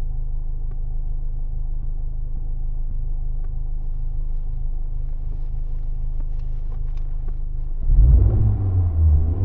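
Honda Civic Type R FL5's 2.0-litre turbocharged four-cylinder idling through a Spoon N1 exhaust muffler, a steady low drone. About eight seconds in the exhaust gets louder and more uneven.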